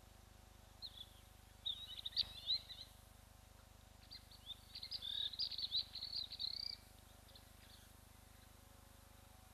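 Wild bird calls: high-pitched, rapid chattering in two bursts, one about two seconds in and a longer one from about four to seven seconds in.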